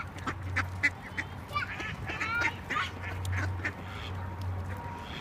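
Several ducks calling at once: many short overlapping quacks and chirps.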